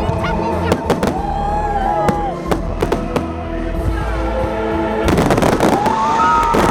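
Fireworks salute going off over loud music: separate sharp bangs in the first few seconds, then a dense, rapid run of bursts and crackle from about five seconds in.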